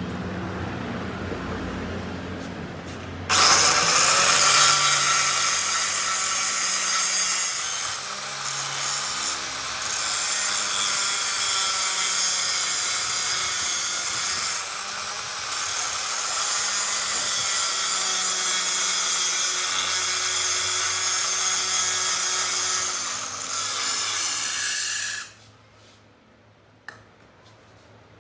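A low machine hum, then about three seconds in a power tool starts up on the metal workpiece with a loud, even hiss, pausing briefly a few times and stopping suddenly about 25 seconds in.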